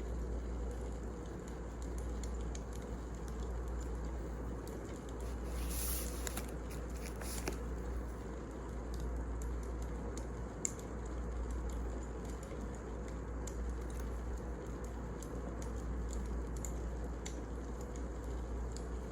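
Wood fire burning: scattered crackles and small pops over a steady low hiss and rumble, with a brief louder flare of crackling about six seconds in.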